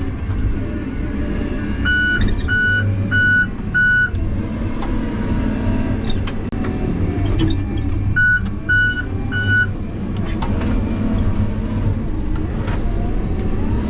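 Heavy equipment engine running steadily under load, with a backup alarm beeping in two short runs: four beeps about two seconds in and three more about eight seconds in. A few short knocks and clanks of the machine come through as well.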